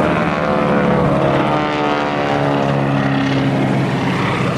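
Boeing Stearman biplanes' radial engines and propellers passing low and fast, the engine note falling steadily in pitch as they go by.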